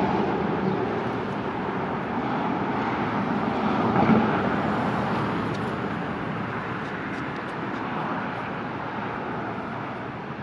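Steady road and engine noise inside a car's cabin, an even rush without distinct events.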